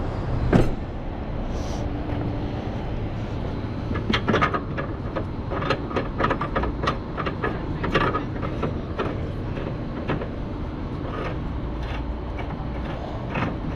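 Short metal clinks and knocks from tow gear being handled, one sharp knock about half a second in and a run of them from about four to nine seconds in, over a steady low rumble.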